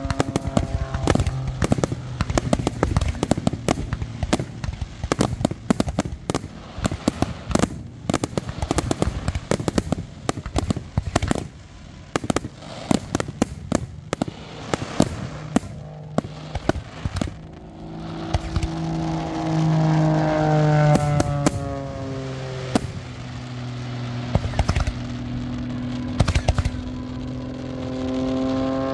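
Fireworks display: aerial shells bursting in rapid, dense volleys with crackling for the first two-thirds, then thinning to scattered bangs. Music with long held notes is heard under the bangs in the last third and is loudest there.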